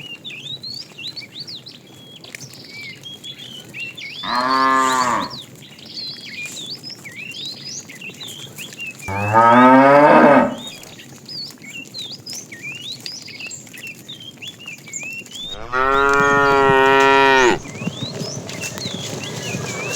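Cattle mooing: three long calls, about four, nine and sixteen seconds in, the middle one the loudest and rising in pitch.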